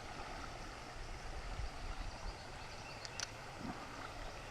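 Steady rush of flowing creek water, with a faint click about three seconds in.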